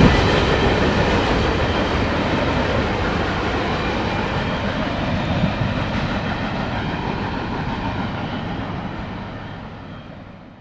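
Railroad cars rolling past on the track, the rumble and wheel noise slowly fading as the train draws away, dropping off sharply near the end.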